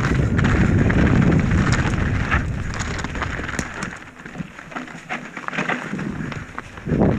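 Mountain bike riding down a rocky trail: wind rumbling on the microphone and tyres rolling over rough ground, with sharp rattling clicks from the bike. The rumble drops away for a few seconds about four seconds in, leaving mostly the clicks, then returns near the end.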